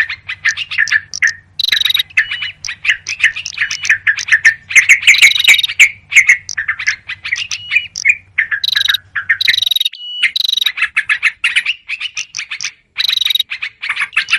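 Yellow-vented bulbuls chattering in a fast, agitated run of call notes, as used in a bird-lure recording, with brief pauses between bouts. A faint low hum underneath stops about two-thirds of the way through.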